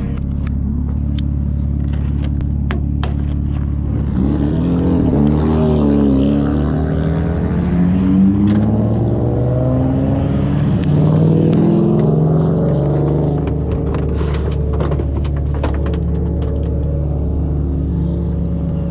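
BMW E46 drift car's engine running hard, its pitch rising and falling repeatedly through the middle stretch as it is revved between runs of steady drone. A few sharp clicks or knocks come through on top.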